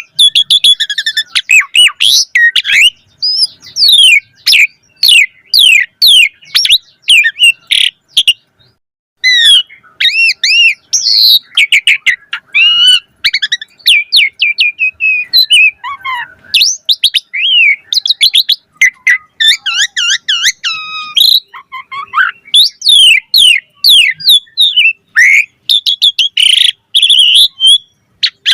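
Javan pied starling (jalak suren) singing loud and nonstop: a fast, varied run of whistles, chattering notes and rising and falling glides, packed with borrowed phrases. There is one short pause about eight seconds in.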